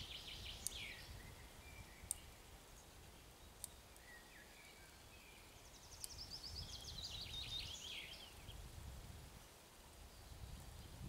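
Faint songbird song: quick trilled phrases that fall in pitch, heard near the start and again for a couple of seconds past the middle, over a low rumble.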